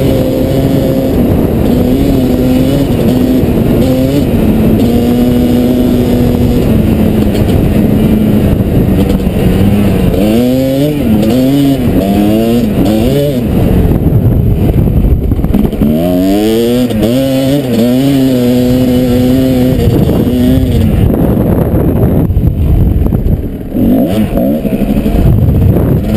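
Kawasaki KDX220's two-stroke single-cylinder engine running while riding off-road, its pitch climbing and dropping repeatedly as the throttle is worked through the gears, with a short lift off the throttle near the end.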